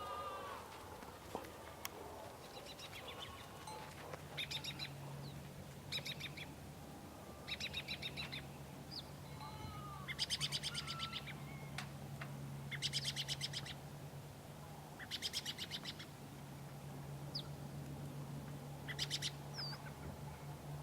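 Farmyard birdsong: a small bird sings short, fast trills, each about a second long, every two to three seconds. Brief whistled chirps are scattered between them, and a low steady hum starts about four seconds in.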